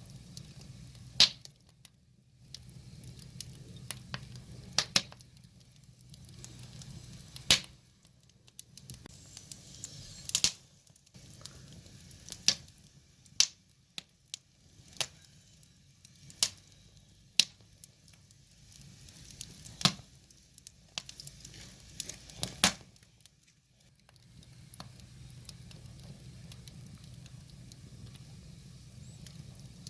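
Wood fire crackling: sharp pops and snaps at irregular intervals, a handful of them much louder than the rest.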